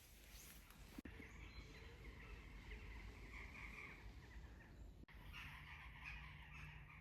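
Faint outdoor woodland ambience: distant birds calling over a low rumble of wind.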